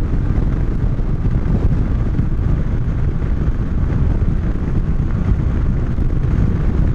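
Steady wind rush over the helmet microphone of a moving motorcycle, with the low rumble of the Moto Guzzi V-twin running at a steady cruising speed beneath it.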